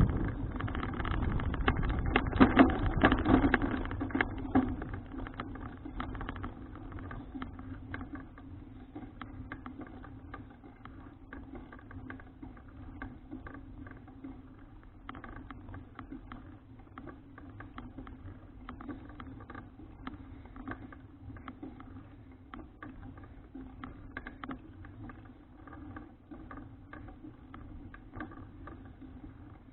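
Folding bicycle being ridden: wind and road rumble are loud for the first few seconds, then fade to a quieter steady hum with many small clicks and rattles.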